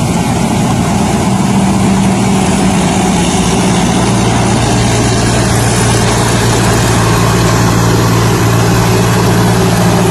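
Thai Charoen Kan Chang rice combine harvester running steadily: a loud engine hum with the clatter and rush of its machinery over it. The engine's pitch shifts slightly a few times.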